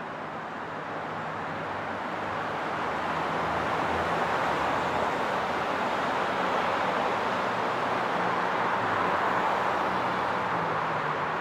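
Highway traffic: a continuous wash of tyre and engine noise from passing vehicles, growing louder over the first few seconds and then holding steady, with a low engine hum underneath.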